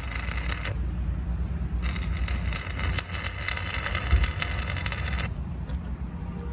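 Steel being cut on an excavator boom: a harsh hissing, crackling noise in two stretches, the second lasting about three and a half seconds, over a steady low hum.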